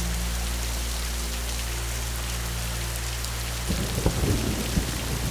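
Steady rain falling, with a low rumble of thunder rolling in about two-thirds of the way through.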